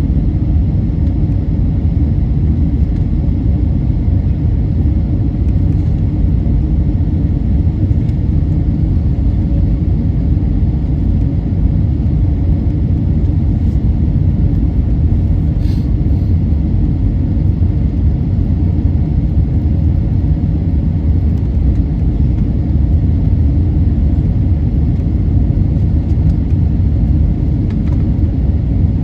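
Steady low rumble of engine and airflow noise heard inside the cabin of an Airbus A320-family airliner, with a faint click about 16 seconds in.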